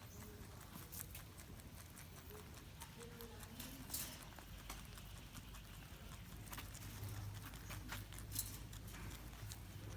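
Rabbits chewing food: a run of quick, faint crunching clicks, with a louder crunch about four seconds in and another near the end.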